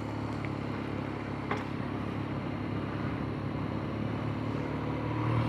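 Motorcycle engine running steadily while riding, over a haze of road and wind noise; the engine note swells a little near the end.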